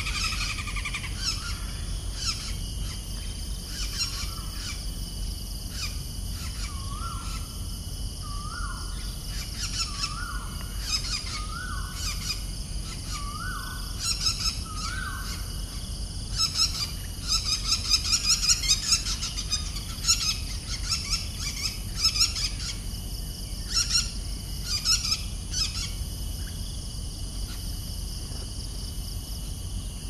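Birds calling: a run of short rising whistled notes about once a second in the first half, among sharp high chirps and trills that come thickest in the middle, over a steady insect drone.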